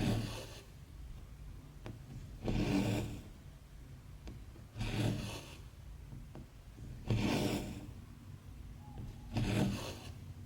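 Embroidery floss being drawn through 14-count cross-stitch fabric: five rasping pulls, about one every two and a half seconds, with faint clicks between them.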